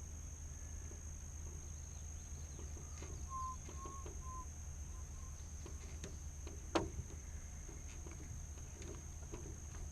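Outdoor ambience over a steady high-pitched hum: a bird gives a few short even-pitched call notes between about three and four and a half seconds in, and there is a single sharp knock near seven seconds in.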